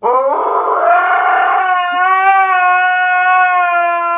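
A dog howling: one long unbroken call that rises in pitch over the first second and a half, then holds steady.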